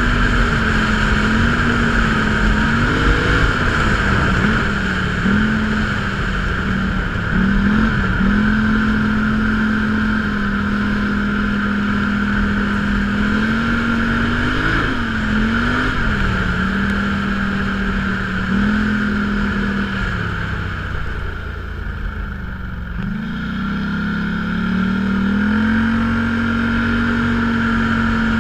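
Off-road vehicle engine running under way, its note rising and falling with throttle changes. About twenty seconds in the engine drops low, then revs back up and holds a steady pitch.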